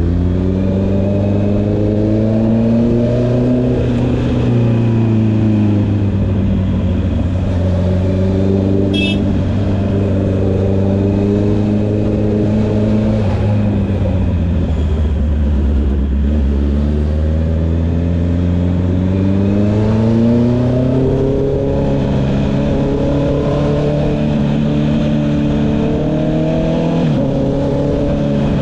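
Honda CB650R's inline-four engine through an Akrapovic exhaust, revs climbing and falling as the bike accelerates and slows, settling lower in the middle and pulling up again later. A short high click sounds about nine seconds in.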